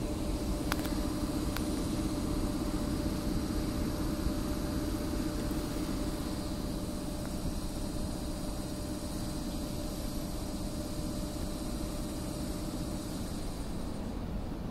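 Steady rumble of a passenger train rolling slowly on the rails, heard through an open carriage window, with a few sharp wheel clicks in the first two seconds. The noise eases a little as the train slows toward the end.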